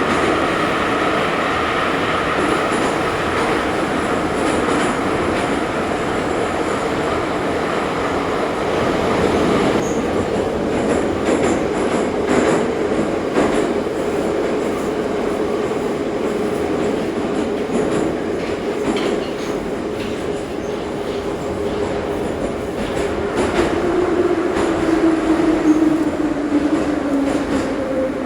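Ezh3 metro train running between stations: a steady motor hum over wheel and rail noise, with a run of rail clicks about ten seconds in. Near the end a falling whine as the train slows.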